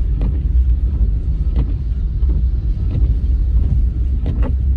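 Car cabin noise while driving: a steady low rumble of engine and tyres on the road, with a faint tick about every second and a half.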